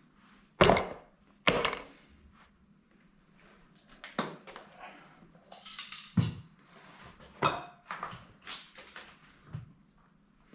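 Metal tools and engine parts being handled on a bench: two sharp clanks about half a second and a second and a half in, then a run of lighter clinks, taps and scrapes.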